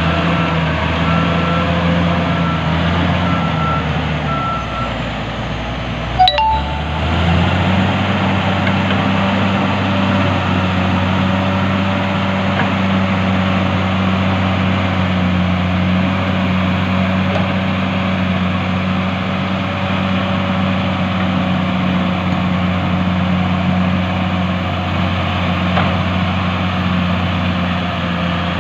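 Heavy diesel earthmoving machines, an excavator and a bulldozer, running steadily at work, with a repeated alarm beeping over the first few seconds. About six seconds in there is a sharp knock, and the engine note then rises and holds steady.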